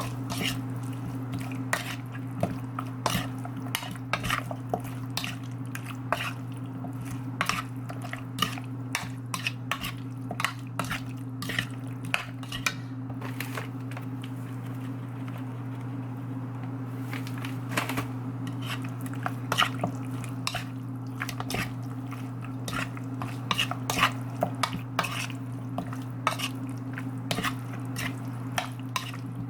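Metal kitchen utensils clinking and scraping against dishes in quick, irregular taps, with a short lull about halfway through, over a steady low hum.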